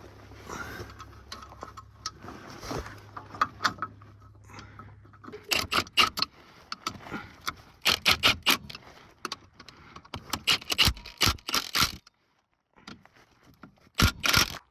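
Metal tools and parts clinking and clanking in quick clusters of sharp clicks while a new transmission mount is fitted to the truck.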